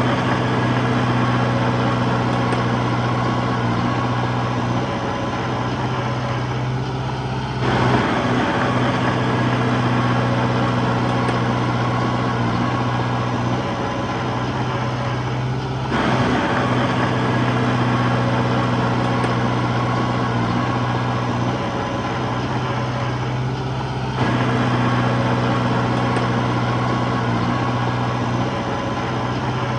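Diesel engine of a Komatsu D21P bulldozer running steadily under load as it pushes soil. Its level rises sharply about every eight seconds and then slowly falls away.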